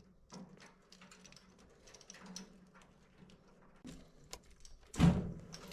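Small plastic microwave door latch parts being handled, giving scattered light clicks and taps, with one louder knock about five seconds in.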